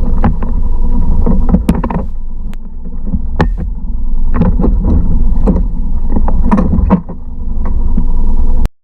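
Mercury 3.5 outboard motor running steadily on a kayak, with irregular sharp splashes or knocks of the hull on the water over it. The sound cuts off suddenly near the end.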